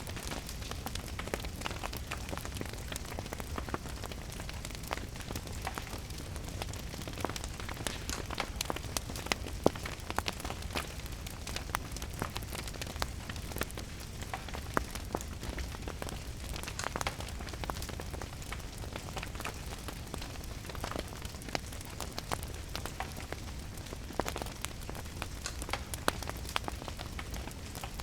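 Steady rain mixed with a crackling wood fire: a constant hiss and low rumble, with many small sharp crackles scattered throughout.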